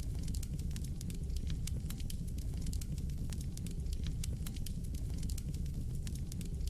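Fire crackling in a fireplace: frequent irregular sharp pops and snaps over a steady low rumble of burning.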